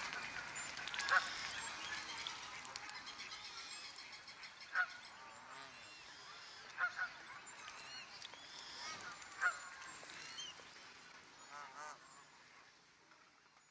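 Birds calling over a faint outdoor ambience: four short, loud calls stand out among fainter chirping. The sound fades out near the end.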